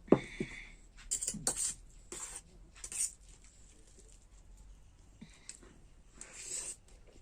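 Cutlery clinking and scraping against a plate of noodles during eating, in several short bursts, the loudest right at the start.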